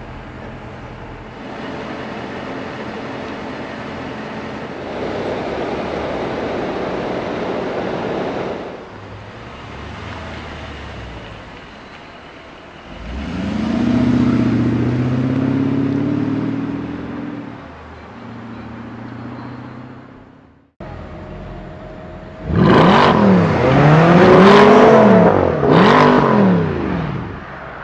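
Mercedes-Benz GL500's V8 engine running, swelling into a rev about halfway through. After a sudden break, it is revved hard several times in quick succession, each rev rising and falling in pitch.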